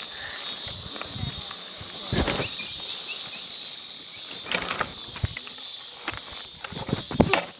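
A steady high-pitched insect chorus, such as crickets or cicadas, with a few sharp knocks and clicks, the loudest near the end.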